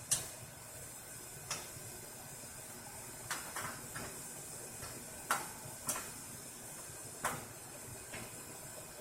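Tools and metal parts clinking and knocking while a condenser fan motor is being worked on: about nine sharp clicks spread irregularly, the loudest just after the start, over a steady hiss.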